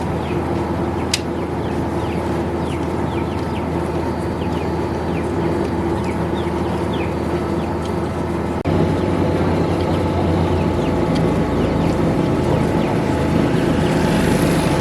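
A steady machine hum, its tone changing suddenly about two-thirds of the way through, with short high chirps repeating over it.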